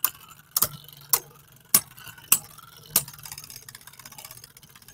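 Two Beyblade Burst tops spinning in a stadium, clashing in a series of sharp clicks about every half second, five in the first three seconds. After that, fainter, quicker ticking continues over a faint steady hum.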